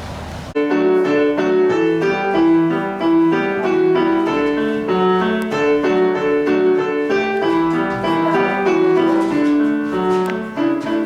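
Piano music: a melody of evenly paced notes over a lower accompaniment, cutting in abruptly about half a second in.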